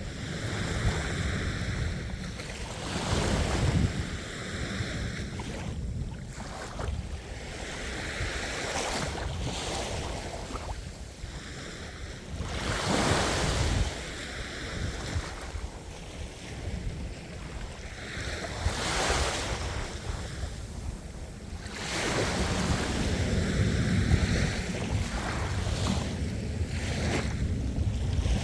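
Ocean waves breaking and washing in, a continuous hiss that swells and fades with each wave every few seconds.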